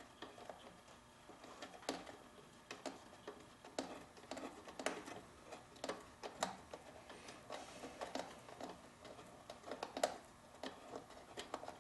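Irregular light clicks and taps of hand tools and small parts being handled during reassembly of a two-stroke backpack blower.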